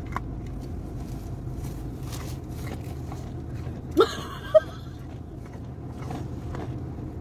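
Car engine idling with a low steady hum, with faint scattered crunching clicks of an animal chewing carrots at the car window. A short rising squeak about four seconds in.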